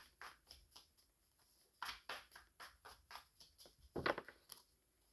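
Quiet, irregular small clicks and taps, a few a second, with one louder knock about four seconds in.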